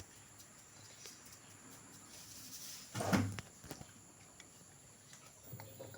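A single dull thump about three seconds in, over faint steady background noise.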